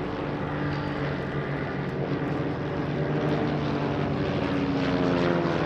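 Several Van's RV-8 light aircraft flying in formation, their piston engines and propellers droning together, with their tones sliding slowly downward in pitch.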